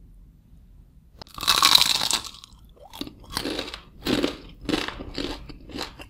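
Crisp deep-fried shredded-potato snack bitten into about a second in with one long, loud crunch, then chewed with a run of shorter crunches about two a second.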